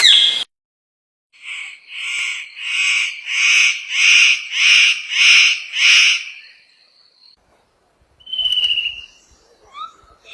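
Bird calling: a run of about eight repeated, evenly spaced notes, nearly two a second, followed by a single whistle and a few quick chirps near the end.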